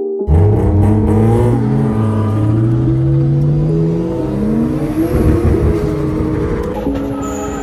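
Car engine heard from inside the cabin, accelerating, its pitch climbing steadily over several seconds.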